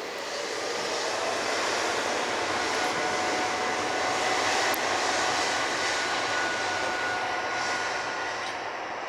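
Jet airliner's engines at takeoff thrust: a steady rush of noise with a few thin high whining tones in it, swelling a little toward the middle and easing slightly near the end.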